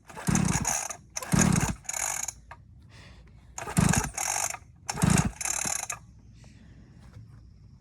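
Dirt bike engine being cranked over again and again without starting, in short, noisy strokes a second or so apart that stop about six seconds in: the tank is out of gas.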